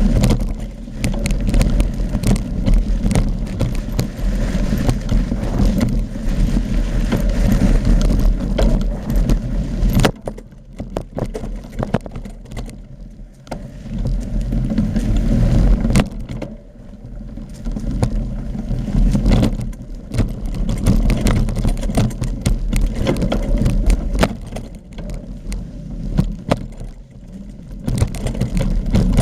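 Mountain bike riding down a dirt trail: wind buffeting the microphone, with rapid rattles and knocks from the bike and tyres over the ground. The rumble eases off twice for a few seconds, about a third and halfway through.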